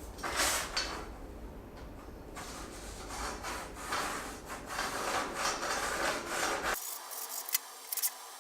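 Repeated scraping strokes by hand, about one or two a second, that stop suddenly near the end, followed by a few light clicks.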